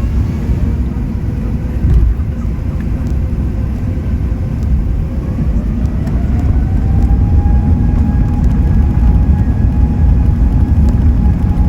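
Cabin noise of an Airbus A380: a steady low rumble from the aircraft, with an engine whine that rises in pitch about halfway through and then holds steady as the loudness grows, the engines spooling up.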